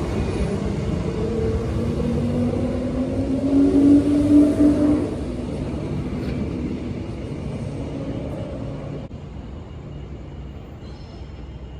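Electric suburban train running with a steady rumble and a rising whine from its motors as it picks up speed, loudest about four to five seconds in, then fading and dropping off abruptly about nine seconds in.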